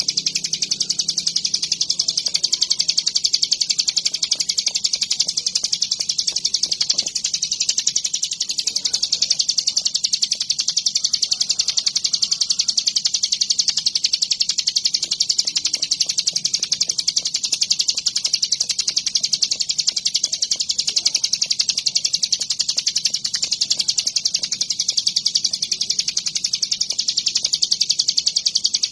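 Ciblek gunung, a small prinia songbird, singing nonstop: a high, very fast, unbroken chattering trill.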